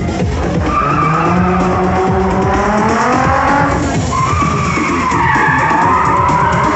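Car tyres squealing in long, wavering screeches over a running engine, with music playing underneath.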